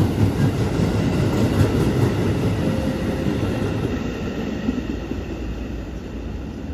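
A train running through the station, its wheels clattering over the rails, the rumble gradually fading as it moves off.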